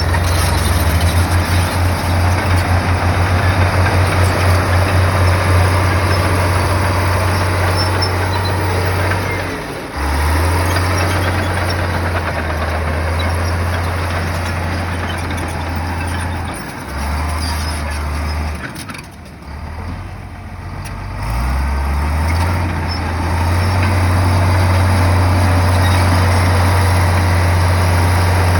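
Bulldozer's heavy diesel engine running hard, with a throbbing pulse in the first few seconds. It eases off briefly about ten seconds in and again around twenty seconds, then pulls steadily again.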